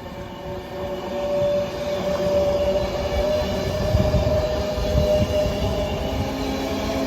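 A train moving through the station, its rumble building over the first two seconds, with a sustained whine that slowly rises in pitch.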